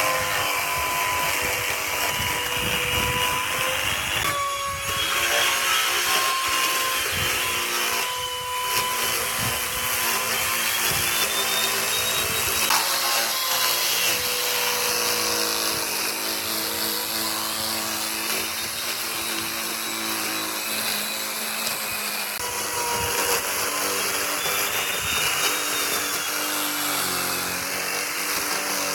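Handheld electric power tool running continuously against wood, its motor whine drifting up and down in pitch as the load changes, with two brief dips in the first ten seconds.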